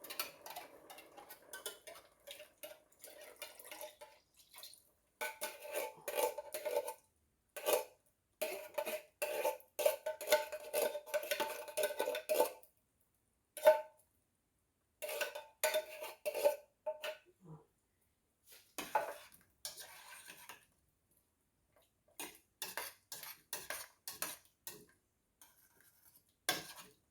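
A spoon stirring and clinking against a cooking pot, in runs of quick knocks that each ring briefly, with short pauses between the runs.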